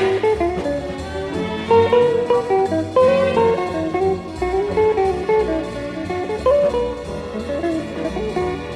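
Light orchestral music: a melody of short, quickly changing notes over a steady bass line.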